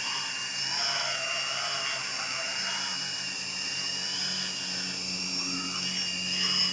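Hexacopter's six electric motors and propellers whining steadily, the high pitch wavering slightly.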